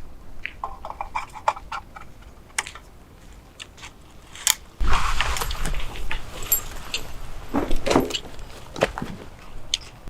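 Irregular clinks and taps of small hard objects being handled, then from about five seconds in a louder stretch of rustling and knocking.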